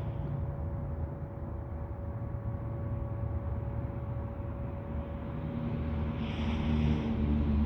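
Low, steady droning rumble with a faint constant hum, swelling and growing louder over the last couple of seconds, with a short hiss about six seconds in. It is the ongoing 'strange sound' that the recordist takes for trumpets in the sky.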